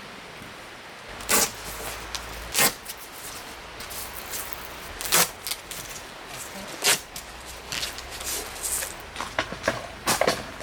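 Sharp knocks and clacks of gear being handled, single ones a second or two apart, then a quicker run of lighter clicks near the end.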